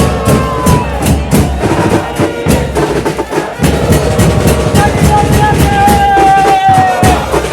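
Bass drums and percussion beating a steady rhythm under a long held horn note that sags slightly in pitch, sounded twice: the drum-and-brass music of a football supporters' band.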